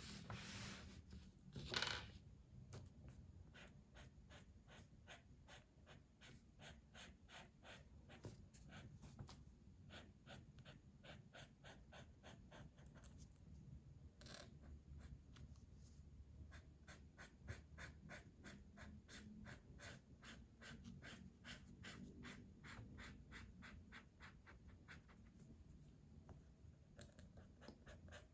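Colouring strokes on paper: quick, faint back-and-forth scratching of a colouring tool, several strokes a second, with a few short pauses and one louder stroke about two seconds in.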